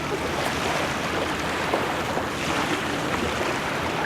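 Waves washing on a shoreline, a steady rush of water noise with some wind.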